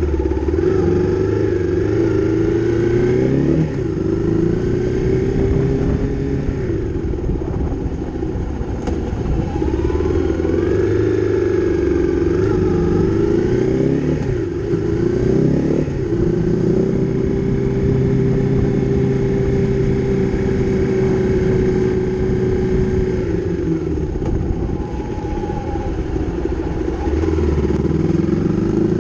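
Honda CRF250's single-cylinder four-stroke engine running under way, its note rising and falling as the bike accelerates, shifts and eases off, with several sharp drops in pitch and a steadier stretch just past the middle.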